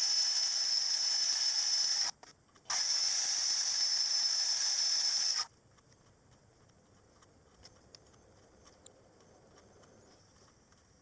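A small machine running steadily with a high whine, stopping briefly about two seconds in, then cutting off about five and a half seconds in, leaving faint scattered clicks.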